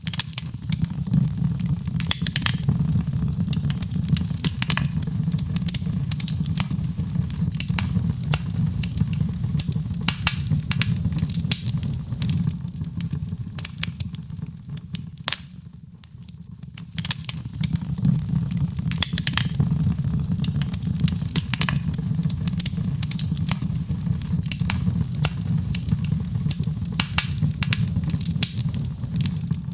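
Fireplace fire crackling, with frequent sharp pops and snaps over a steady low rumble of the flames. The rumble and crackle die down for a few seconds about halfway through, then pick up again.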